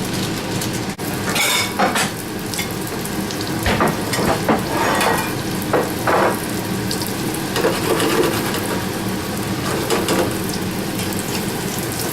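Breaded chicken breasts frying in oil and butter in a pan, a steady sizzle, with a few short clatters about two, four, five and six seconds in.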